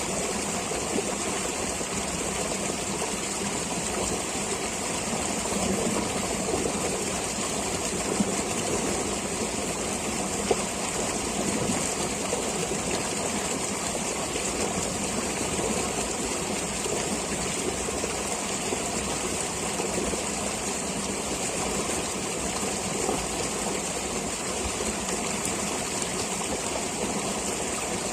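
Flowing stream water, a steady, unbroken rushing and burbling.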